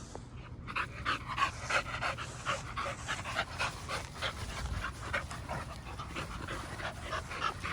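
A dog panting rapidly in an even rhythm, about three to four breaths a second, starting about half a second in. The dog is tired out from play.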